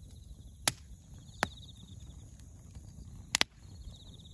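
Wood bonfire crackling, with a few sharp pops: one under a second in, another about a second later, and a quick double pop near the end, the loudest sounds. Under them, Japanese bell crickets (suzumushi) chirp in a high, pulsing trill that comes and goes.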